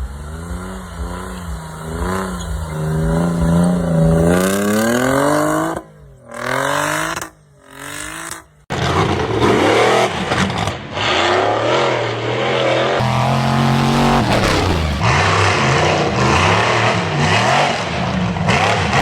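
Off-road 4x4 engine revving hard, its pitch climbing and falling again and again as the vehicle works. The sound drops away briefly twice between about six and nine seconds in, then the revving carries on dense and loud.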